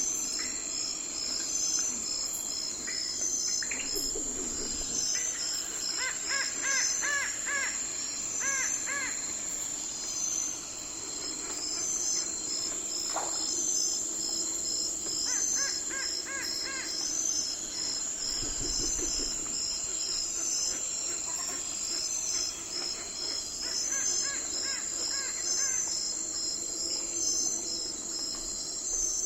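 Night forest ambience: insects trilling steadily in a high, evenly pulsing chorus. Three times, a bird gives a quick series of repeated calls.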